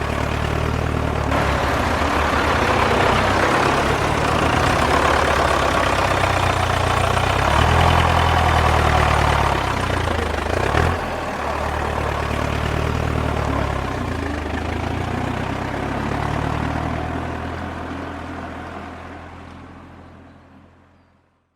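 Tractor engine running, its pitch rising and falling a little as the revs change, with a short sharp knock about eleven seconds in. The sound fades out over the last few seconds.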